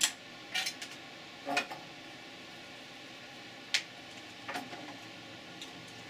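A few sharp clicks and light knocks of small metal tools on a circuit board and workbench during desoldering, over a steady background hiss.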